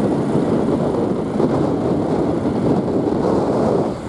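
Steady road noise from riding on a motorbike taxi: the motorbike's running, the rush of air and the surrounding traffic blend into one even rush, dipping briefly near the end.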